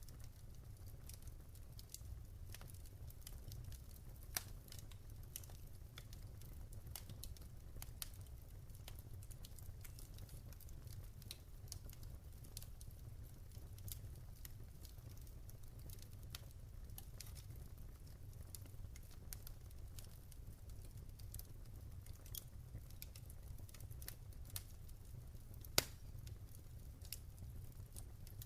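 Wood fire burning in a fireplace: irregular small crackles and snaps over a low steady rumble of the flames, with a sharper pop about four seconds in and the loudest pop near the end.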